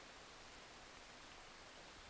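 Near silence: light rain making a faint, steady hiss.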